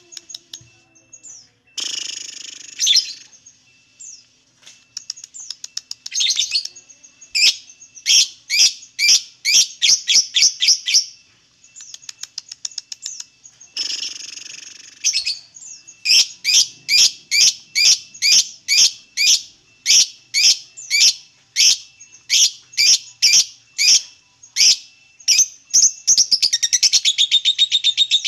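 Lovebird chattering its long 'ngekek' song: loud, sharp, high chirps repeating about two a second in long runs, broken twice by short harsh screeches, and quickening into a fast chatter near the end.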